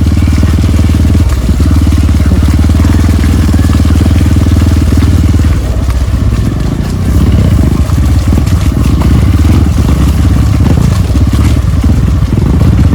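Trail motorcycle engine running hard at low speed, its exhaust pulsing steadily. The engine note eases about six seconds in, then picks up again.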